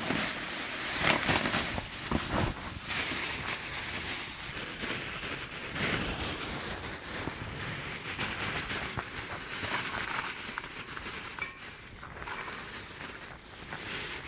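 Rain hissing steadily, with irregular crinkling and rustling over it.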